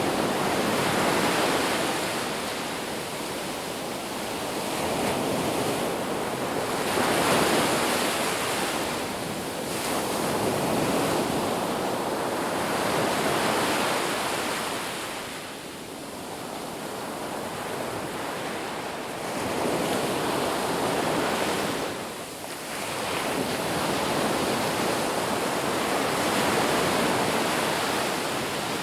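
Ocean surf breaking on a beach, a steady wash of noise that swells and eases as each wave comes in and draws back, every few seconds.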